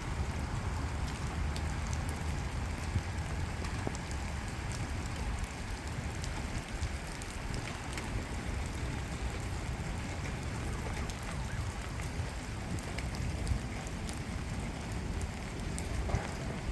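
Steady rain falling, an even hiss with scattered sharp ticks of single drops, over a low rumble.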